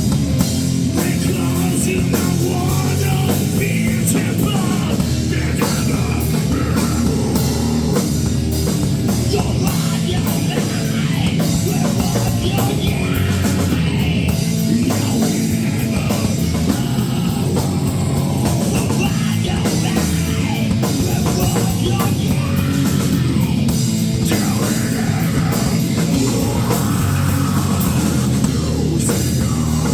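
Rock band playing a song live and loud, with a drum kit keeping a steady beat under guitars and bass.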